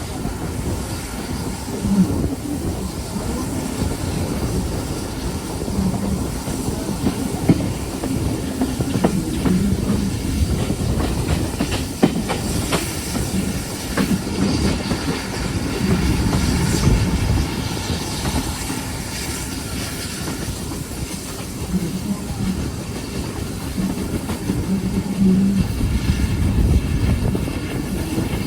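Train running along the track: a steady rumble of wheels on rail with irregular clicks as they pass over the rail joints.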